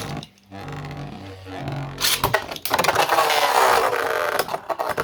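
Two 3D-printed Beyblade spinning tops launched into a stadium: a launcher whir, a sharp hit as they land, then a loud rattling stretch of clashing and scraping as they spin against each other.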